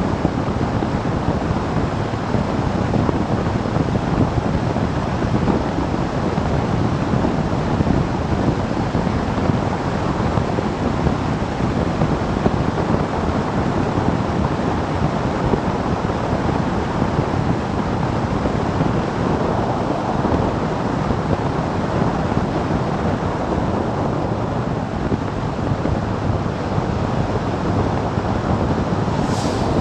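Steady rush of wind buffeting the microphone, with engine and road noise from a motorcycle riding at speed. A brief high tick sounds near the end.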